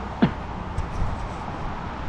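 Steady low road rumble of a car driving, heard from inside the cabin, with a brief falling vocal sound just after the start.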